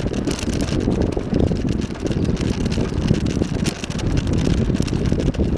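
Wind buffeting the microphone over the rumble and rattle of a bicycle rolling along a path, with many small clicks and knocks throughout.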